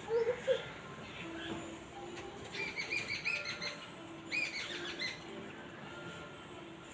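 Birds calling: a few low, short notes at the start, then two quick runs of high chirps, about two and a half seconds in and again near four and a half seconds.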